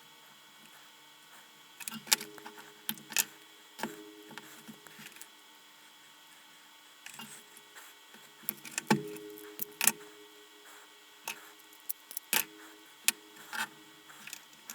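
Scattered sharp clicks and taps from handling salvaged 18650 lithium-ion cells, wires and tools while the cells are being wired in series. They come in three clusters with quiet gaps between, the loudest near the middle.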